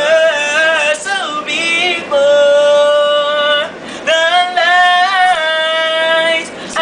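Unaccompanied male voice singing an R&B-style line. It holds two long, high, steady notes and moves through quick vocal runs between them.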